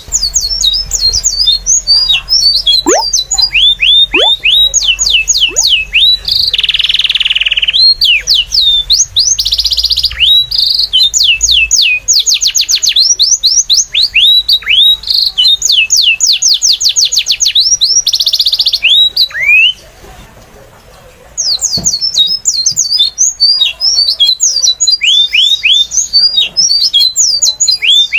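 Songbird singing continuously in a loud, busy song: rapid series of downward-sweeping whistles, fast high trills and short buzzy notes, with a brief pause about twenty seconds in.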